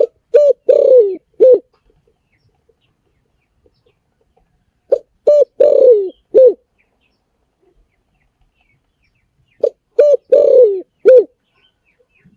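Spotted dove cooing: three phrases about five seconds apart, each of four low coos, the third note longer and falling in pitch.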